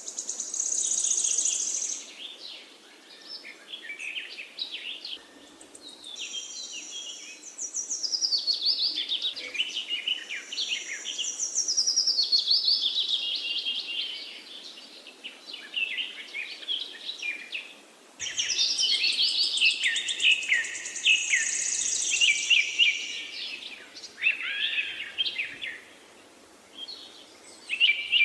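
Parakeets chattering: quick runs of high chirps and rapid trills in phrases a few seconds long, broken by short lulls.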